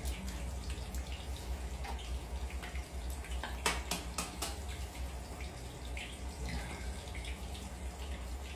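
Cooking sounds over a steady low hum: a cluster of sharp clicks and taps of cookware about halfway through, with light watery sounds, as eggs are readied for frying.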